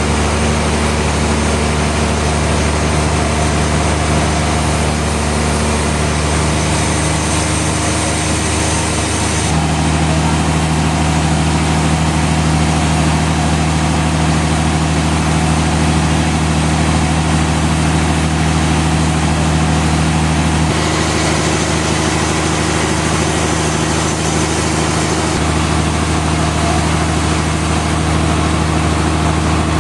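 Sawmill machinery running steadily with an engine-like hum, its pitch shifting abruptly about ten seconds in and again about two-thirds of the way through.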